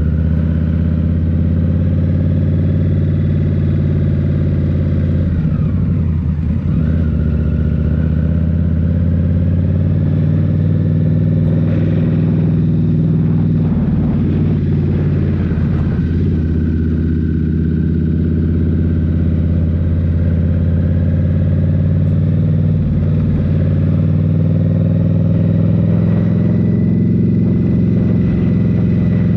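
2023 Indian Scout Rogue's 1133 cc V-twin running under way through a Rinehart slip-on exhaust, holding a steady engine note. The note wavers briefly about six seconds in and again a little past the middle as the throttle changes.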